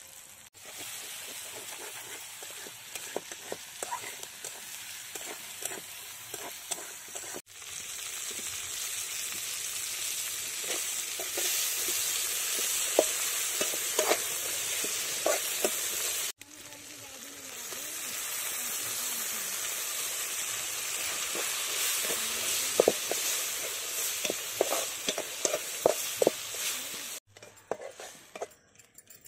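Onions, tomatoes and spices frying in oil in an aluminium pan over a wood fire: a steady sizzle with a metal spatula scraping and clinking against the pan as it is stirred. The sizzle breaks off suddenly twice, and near the end it falls away, leaving only a few scrapes of the spatula.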